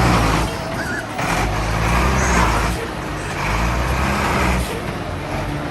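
Motor vehicle engines running, their low drone stepping up and down in level a few times.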